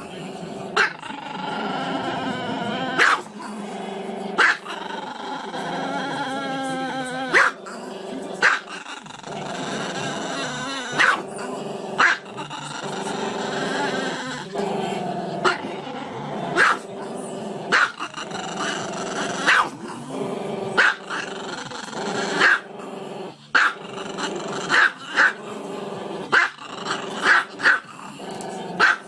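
Small long-coated dog howling with its muzzle raised: drawn-out, wavering howls broken by short sharp barks about once a second.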